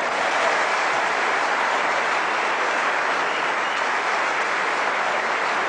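Live theatre audience applauding, a dense, steady clapping that holds at an even level.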